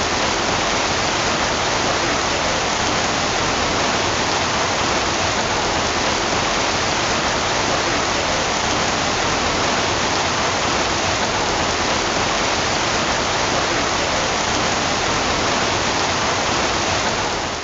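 Heavy rain pouring down in a steady, unbroken downpour, the kind of cloudburst that floods a street within minutes.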